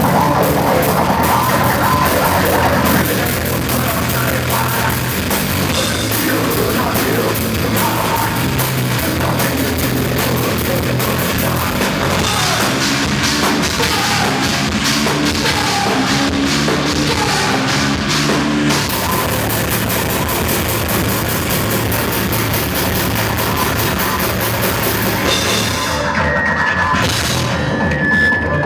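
A rock band playing loud, heavy music live, with a drum kit keeping a steady beat under distorted guitars. A little before the end the cymbals drop out for a moment.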